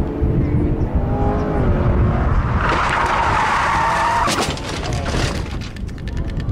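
Car engine running, then tyres squealing in a skid for about a second and a half, ending in a sharp knock. A run of fast clicks follows near the end.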